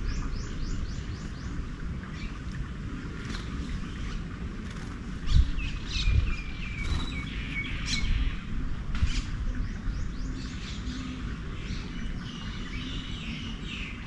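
Several garden birds chirping and calling at once, with quick series of short notes, over a steady low background rumble. Two brief low thumps come around the middle.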